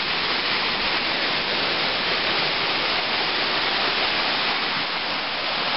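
Steady rushing of a rocky mountain creek, a constant even hiss of fast water with no change through the stretch.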